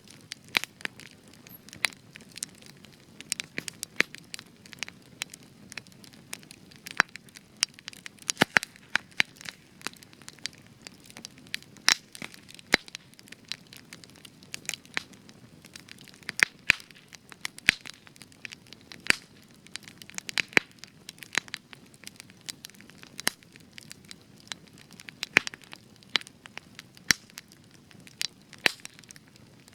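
Spruce logs burning in a campfire, crackling and popping with frequent sharp irregular snaps over a soft steady rush of flame.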